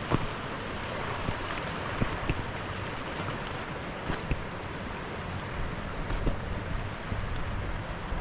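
Steady rush of a hill burn's flowing water mixed with wind on the microphone, with a few short knocks scattered through.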